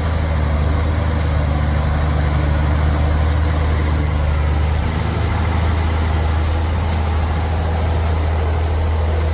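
Heavy truck engine running steadily with an even, low hum.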